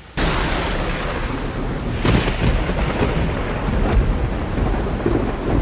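Thunder and heavy rain in a severe thunderstorm, starting suddenly and loudly a moment in and going on as a dense noisy wash, with swells about two and four seconds in.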